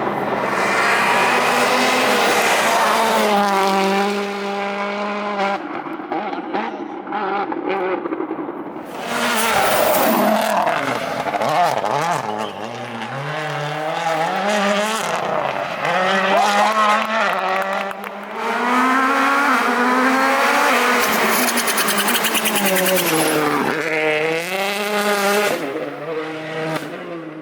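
World Rally Championship cars' turbocharged four-cylinder engines at full throttle on a rally stage. The engine pitch climbs hard and drops again and again as the drivers shift through the gears and brake for corners.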